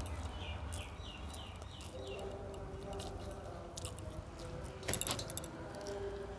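Close-up chewing and mouth sounds of someone eating a rice meal, with many small clicks and one sharp clatter about five seconds in.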